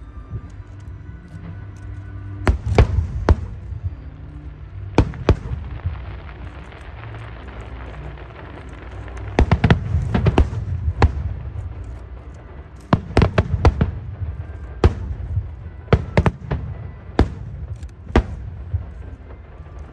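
Fireworks display: sharp bangs and cracks of shells bursting in irregular clusters, some in quick runs of several, over a steady low rumble.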